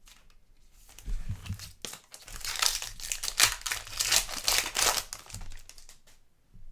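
Plastic trading-card pack wrapper being torn open and crinkled: a soft rustle, then a dense crackle of about three seconds that fades out.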